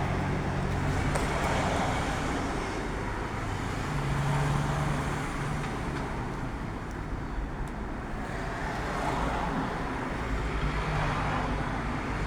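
Car engine running with road and traffic noise, a steady low drone that swells briefly around four seconds in.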